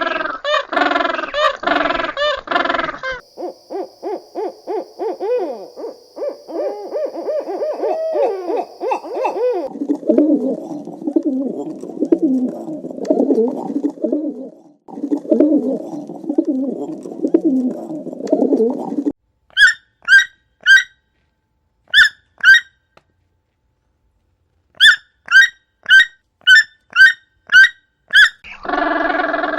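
A series of different animal calls, one after another, with no speech. It ends with a bird's short, sharp high notes, repeated about twice a second in two groups.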